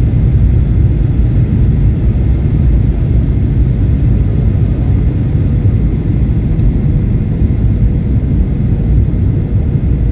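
Jet airliner cabin noise: a loud, steady low rumble of engines and airflow heard from inside the passenger cabin.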